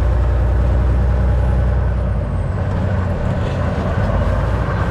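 Semi-truck running at road speed, heard from inside the cab: a steady low engine drone with road and tyre noise. The low drone shifts slightly about two seconds in.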